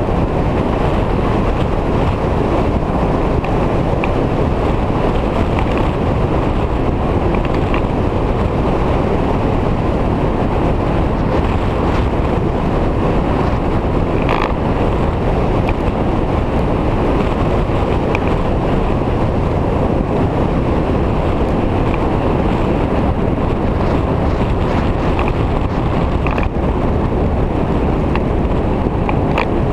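Wind rushing over the microphone together with the steady running and road noise of a Victory V-twin motorcycle being ridden at speed; loud and unbroken.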